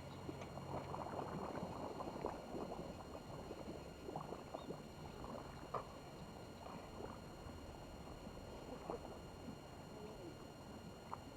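Small waves lapping and splashing at the water's edge, a low steady wash with scattered light ticks and splashes.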